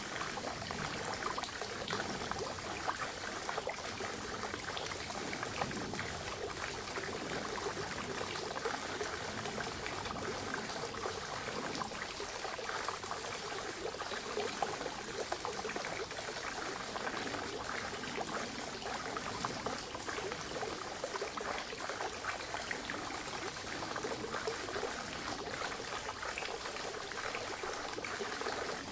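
Spring water running and splashing steadily, a continuous trickle full of small splashes.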